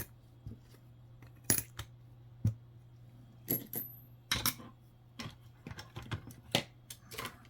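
Jefferson nickels clicking and clinking as they are handled and set down one after another, about a dozen separate clinks. One coin gives a short high ring a little after three and a half seconds in.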